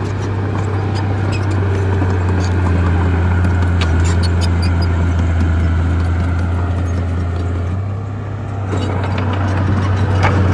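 A bulldozer's diesel engine runs steadily with a deep drone, and scattered sharp clicks and knocks sound over it. The engine eases off briefly about eight seconds in, then picks up again.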